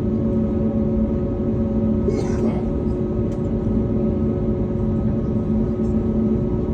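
Airliner jet engines running, heard inside the cabin: a steady rumble with a few constant humming tones. A brief higher rustle or murmur comes about two seconds in.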